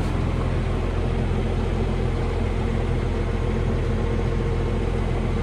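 Engine running steadily, a constant low drone with no change in pitch or level.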